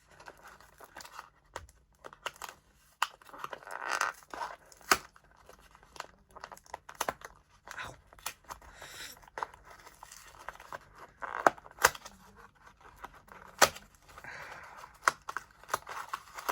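Cardboard and plastic toy packaging being opened by hand: tearing and crinkling, with many scattered sharp clicks and snaps.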